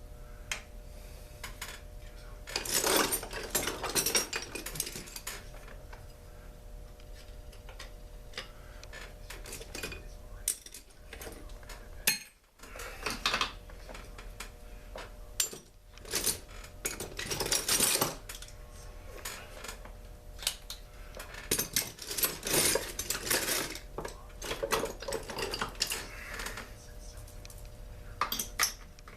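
Hand tools and small metal chainsaw parts clinking, rattling and scraping in irregular clusters as a chainsaw is taken apart, over a faint steady hum.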